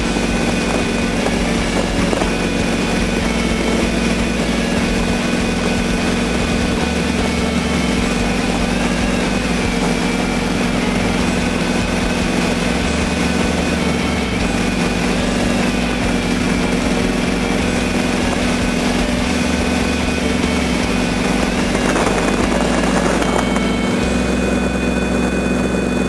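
Engine of a 1922 Ford Model T-bucket hot rod running at a steady highway cruise, with heavy wind noise over the microphone from driving in the open car.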